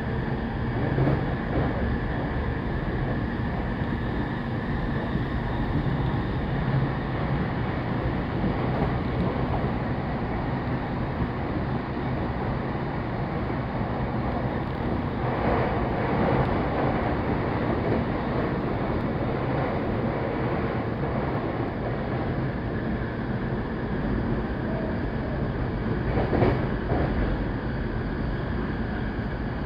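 Saikyo Line electric commuter train running at speed, heard from inside the passenger car: a steady rumble of wheels on rail with a faint motor whine. The noise swells briefly about halfway through and again near the end.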